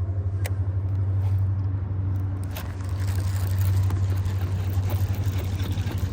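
Passing train: a steady low rumble with a fast flutter in its level, and two sharp clicks in the first half.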